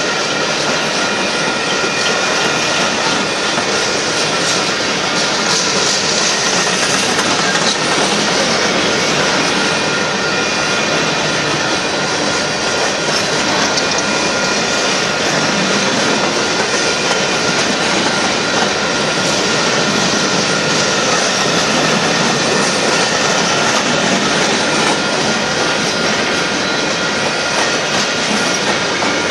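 Coal train cars rolling past: a steady, loud noise of steel wheels running on the rails, with no let-up.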